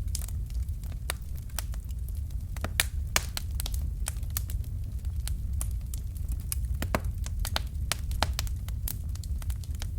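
Wood fire crackling, with irregular sharp snaps and a few louder pops over a steady low rumble.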